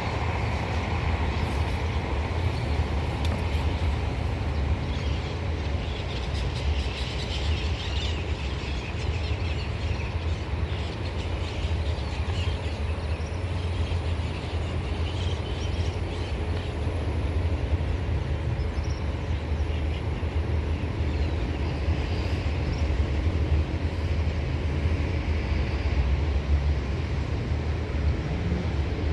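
Passenger train running, a steady low rumble with some higher rattling throughout.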